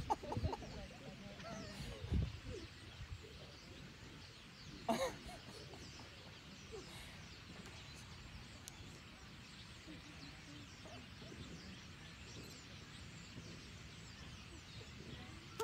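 Faint outdoor ambience with scattered bird calls, and one short, louder call about five seconds in.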